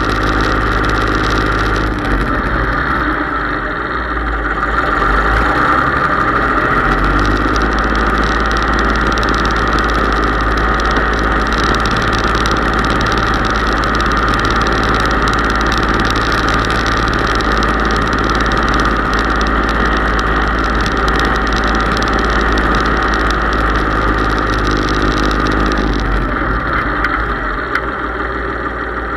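Case IH 3220 tractor's diesel engine running steadily. It picks up a little from about five seconds in and eases back near the end.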